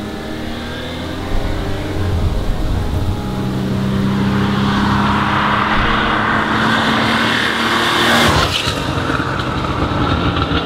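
Porsche 911 3.0 SC's air-cooled flat-six running under load, its note rising as it accelerates and then holding strong. About eight seconds in the pitch drops sharply and the sound carries on lower.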